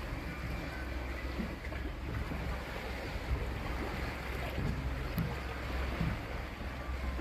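Small motorboat under way: a steady engine drone and rushing water, with wind buffeting the microphone.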